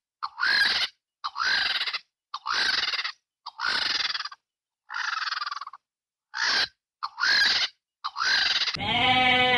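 A series of harsh, hissing screech-like animal calls, each under a second long and about one a second, each with a faint upward slide in pitch. Near the end a bleat begins, in the manner of a goat or sheep.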